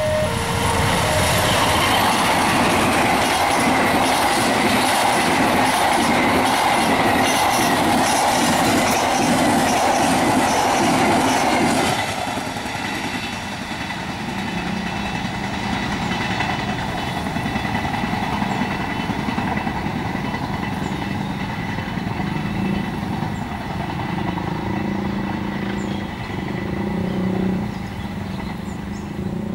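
A KAI diesel locomotive and its passenger coaches pass close and loud, the wheels clacking rhythmically over the rail joints. About twelve seconds in, the sound drops suddenly to the quieter, steady rumble of the train running away into the distance.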